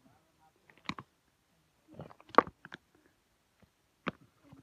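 A person biting and chewing a raw river crab: a few separate sharp crunches of the shell, the loudest about two and a half seconds in.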